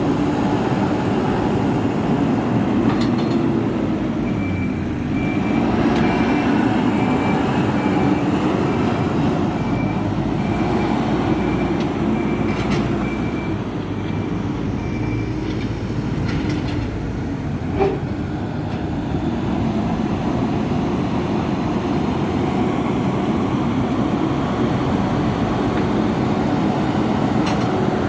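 Hidromek 102B backhoe loader's diesel engine running steadily under load while it works the soil. For about ten seconds in the middle a reversing alarm beeps evenly, about one and a half beeps a second, and a sharp knock sounds a little after that.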